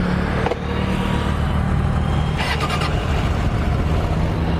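Suzuki Katana GSX600F's carbureted inline-four running on its factory exhaust, just after being started, with a steady low idle. A click comes about half a second in, and a brief rattling burst comes about two and a half seconds in.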